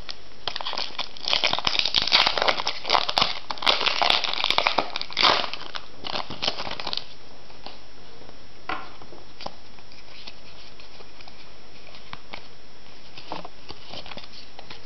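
Foil booster pack wrapper crinkling and tearing as it is opened by hand, a dense rustle lasting about six seconds that stops about seven seconds in; after that only a few faint soft taps.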